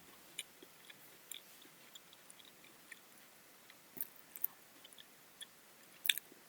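A person chewing food close to the microphone: faint, irregular small crunches and mouth clicks, a little louder about four seconds in and near the end.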